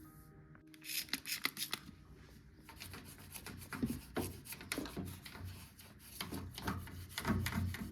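Irregular rubbing and scraping strokes, several a second, starting about a second in and growing busier after about three seconds.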